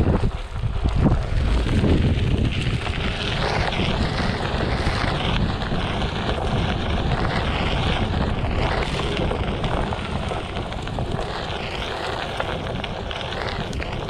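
Onewheel XR's tyre rolling over a dirt trail, with wind buffeting the camera microphone, and a high whine that wavers up and down.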